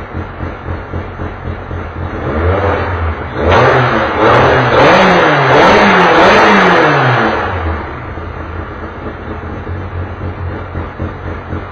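Touring race car engine idling with an uneven, pulsing beat, then revved in a run of about four quick rises and falls in the middle before settling back to idle.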